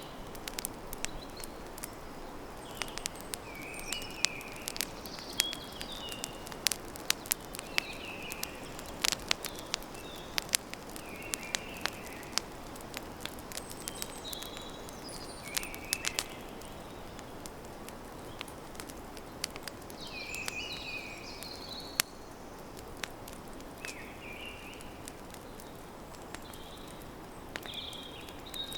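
Campfire crackling, with many sharp pops that come thickly for the first half and more sparsely after, over a steady hiss. Birds chirp short phrases throughout.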